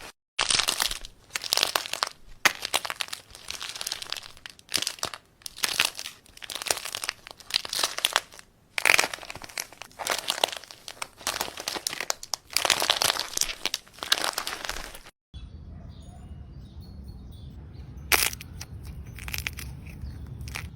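Crunchy material being pressed and squeezed, giving dense crackling and crinkling in repeated strokes about a second long. About 15 seconds in there is a sudden break, then a low steady hum with only a few fainter crackles.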